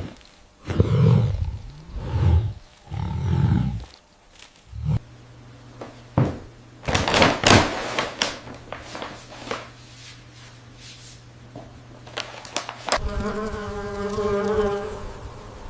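Three loud, low rumbling calls in the first few seconds, then a steady low hum with a few short hissing bursts. Near the end comes a wavering insect-like buzzing.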